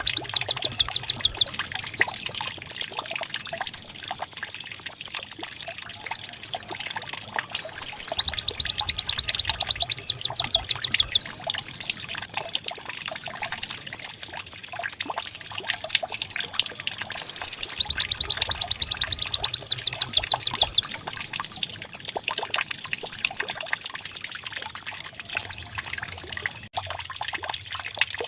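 Recorded white-eye (pleci) song in a canary-like style, looped: a rapid trill of quick falling notes, a wavering whistled phrase, then another rapid trill, the same phrase three times over. The song stops near the end, leaving a faint trickle of water.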